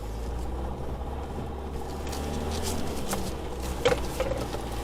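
Isuzu D-Max V-Cross pickup's diesel engine running steadily at low revs, heard from inside the cabin as the truck crawls off-road, with a few faint knocks a little past three and four seconds in.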